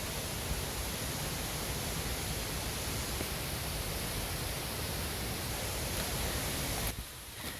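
Steady rushing of falling water, a loud even roar that cuts off abruptly near the end.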